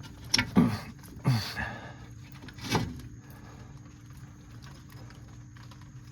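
Greased brake-caliper slide pin being pushed in by hand: a few sharp clicks and short strained grunts of effort in the first three seconds, then only a faint steady hum.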